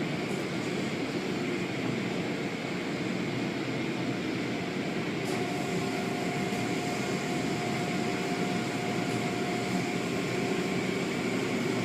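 Automatic car wash tunnel machinery running steadily: a continuous mechanical rush of equipment, with a faint steady tone joining about halfway through.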